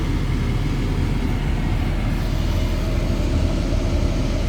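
Ford F-550 service truck's engine idling steadily, warmed up after running for a while.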